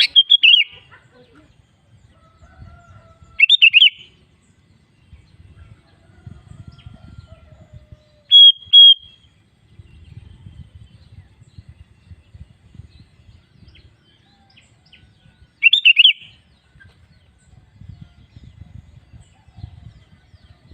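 Sooty-headed bulbul (kutilang) giving short, bubbly call phrases in separate bursts: one right at the start, one about three and a half seconds in, a pair of quick notes around eight seconds, and another around sixteen seconds. A faint low rumble fills the gaps.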